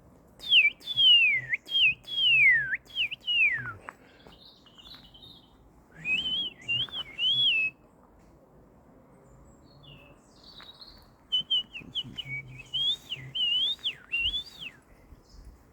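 Bird calls: clear, high whistles. A run of notes sliding downward opens the clip, three short rising-and-falling notes come about six seconds in, and a quicker series of short whistles and chirps follows from about eleven seconds.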